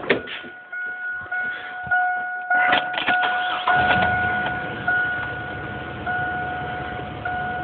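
1998 Chevy Blazer's 4.3-litre V6 cranking briefly and starting, then running at idle. A steady high-pitched tone with short breaks sounds throughout.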